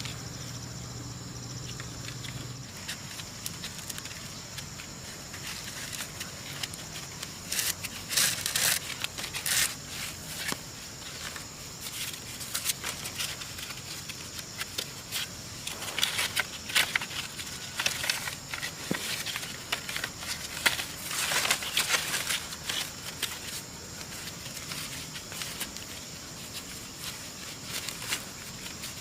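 Dry leaves and twigs rustling and crackling in several bursts, over a steady high drone of insects.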